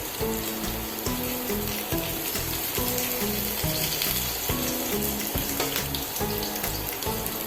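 Food sizzling in hot oil in a pan, a steady hiss, under background music.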